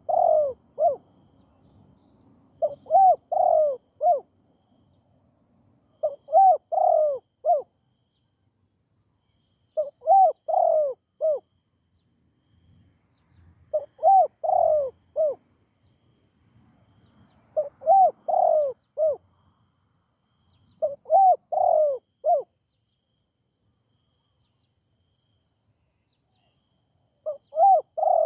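Spotted dove (Thai nok khao yai) cooing in repeated phrases, each a quick run of arched coos about a second long, every three to four seconds. There is a longer pause before the last phrase near the end.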